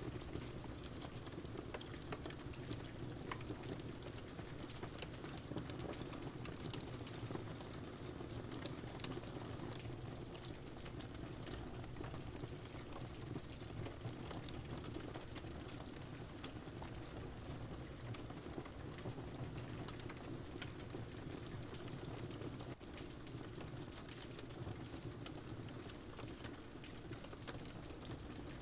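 Steady rain mixed with a crackling wood fire: an even wash of rain sound with frequent small, faint crackles scattered through it.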